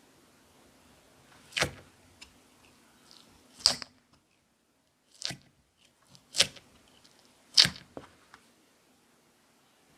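Clear slime being played with by hand, giving five sharp pops spaced a second or two apart, with a few fainter clicks between them.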